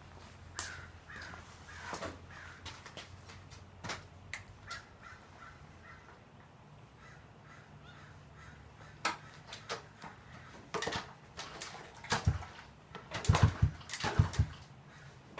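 Dirt bike being kick-started: repeated loud kicks and brief low sputters of the engine trying to fire in the last few seconds. Earlier, several short cawing calls are heard over a low hum.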